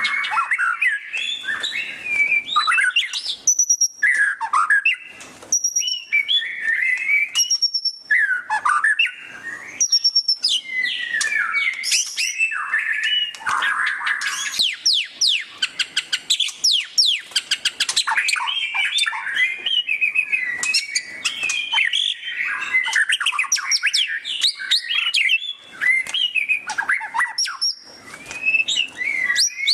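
White-rumped shama singing loudly and without pause: a varied run of clear whistled phrases and rapid chattering trills (the 'ngeriwik' shama call), with a long burst of fast, sweeping chatter notes around the middle.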